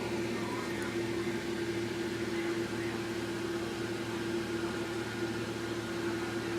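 Steady mechanical hum with one constant mid-pitched tone, unchanging throughout.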